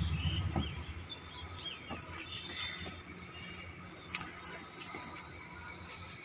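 Birds chirping, with short rising and falling calls. A low vehicle rumble fades out about a second in, and a few soft knocks come as foam cushions are handled in the car's boot.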